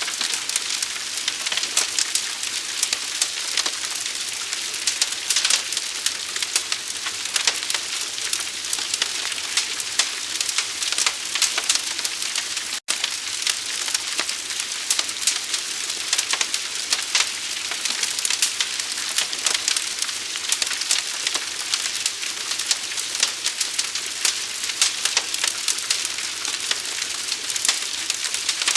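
Forest fire burning: a dense, steady crackling and popping with a faint hiss underneath. About 13 seconds in, the sound cuts out for a split second and then resumes.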